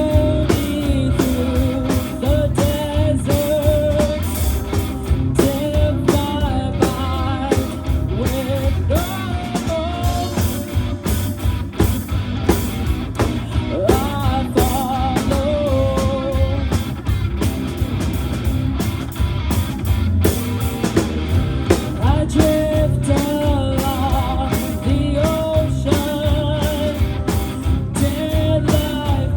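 A live rock band playing a song, with electric guitar and drums and a bending melody line over a heavy bass end.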